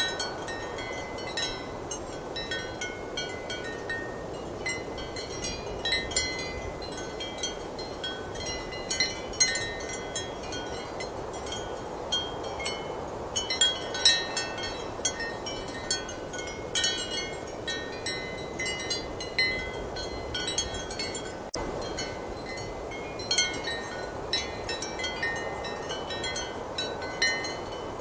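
Ceramic wind chimes clinking irregularly in a strong wind, many short tinkling strikes over a steady rush of wind.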